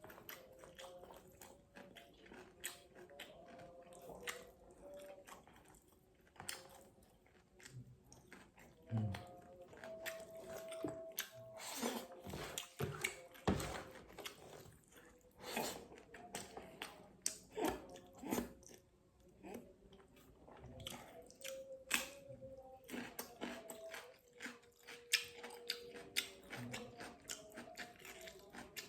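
Close-up mouth sounds of a person eating fish: chewing, biting and lip smacks, with irregular clicks scattered through.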